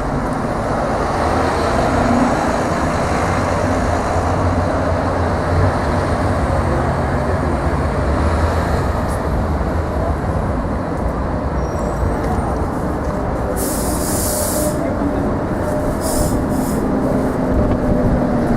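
Sheffield Supertram tram and street traffic running with a steady low rumble, with short hisses of air about fourteen and sixteen seconds in.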